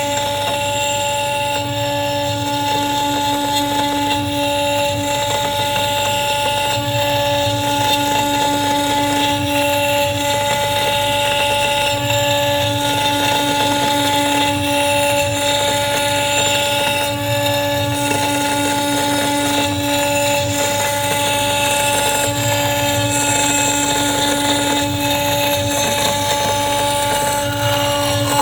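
CNC wood router running, its spindle giving a steady whine at a constant pitch over the noise of the bit cutting.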